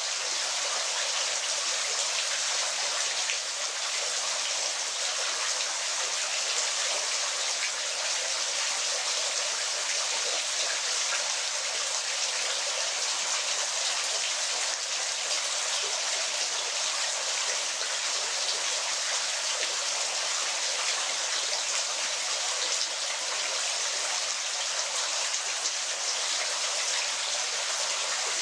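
Waterfall: a steady, even rush of falling water, hissy and bright with almost no low rumble.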